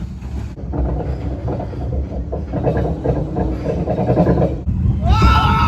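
Amusement-park ride car rumbling and clattering along its track. A high-pitched rising tone with overtones starts about five seconds in.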